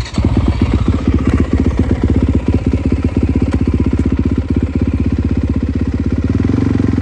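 Dirt bike engine running loud and steady as the bike is ridden, with a rapid, even firing pulse.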